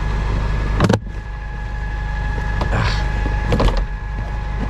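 Vehicle engine idling with a steady low rumble, with a sharp clunk about a second in and another knock about three and a half seconds in, like equipment or a compartment door being handled.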